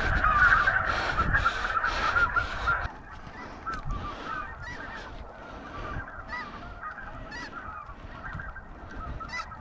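A flock of geese honking, a loud dense chorus for about the first three seconds that drops off suddenly to scattered, quieter honks.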